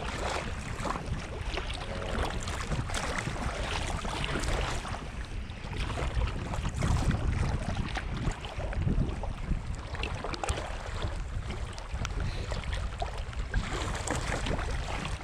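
Fast river water rushing and splashing around a kayak, with wind rumbling on the microphone.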